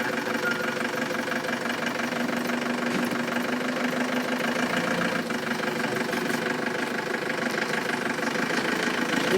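Engine idling steadily, an even running sound with no change in pitch or level.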